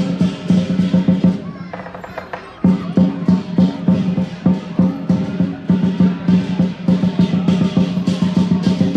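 Lion dance percussion: a large drum and clashing cymbals beating a fast, steady rhythm, which thins out briefly about two seconds in and then comes back in full.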